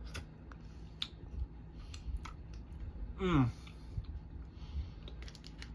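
A person eating a cheese cube dipped in barbecue sauce: scattered small clicks and mouth sounds of chewing, with a short falling "mmm" about three seconds in.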